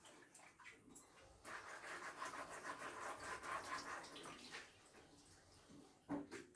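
Faint running and splashing water with a few light clicks, from vegetables being washed under a tap. The water runs from about a second and a half in until well past the middle, then stops.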